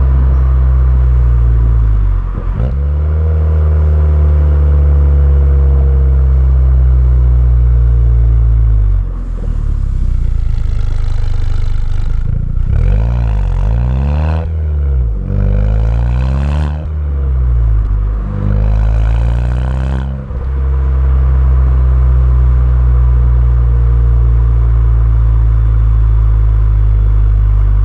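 Car engine running through a Milltek cat-back race exhaust, heard from outside: a steady idle, then four revs that rise and fall back in the middle, before it settles back to idle.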